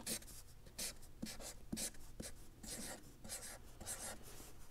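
Someone writing by hand: a string of short, scratchy strokes.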